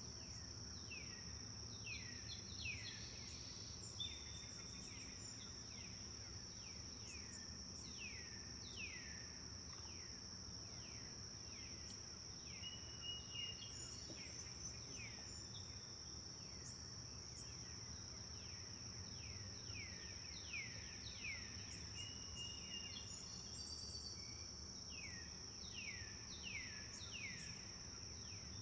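Forest birds chirping: many short, quick downward-sweeping notes in loose clusters, with a few brief level whistles, over a steady high-pitched insect drone.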